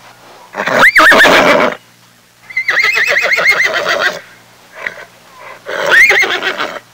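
Horse whinnying: three loud neighs, each rising in pitch and wavering, the middle one the longest with a steady quaver.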